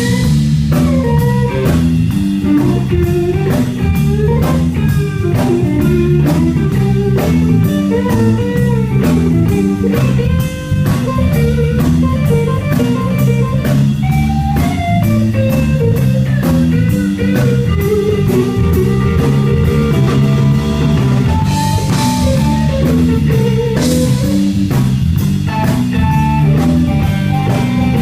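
Live rock band playing an instrumental guitar solo over bass and drum kit, the melody lines bending in pitch. There are two cymbal crashes about two-thirds of the way through.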